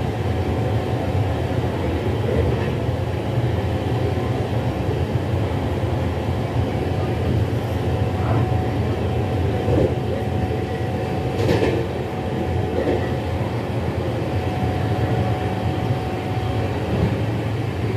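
Running noise of an LHB passenger coach rolling along the track: a steady low rumble of wheels on rails, with a few brief clacks, the loudest about eleven and a half seconds in.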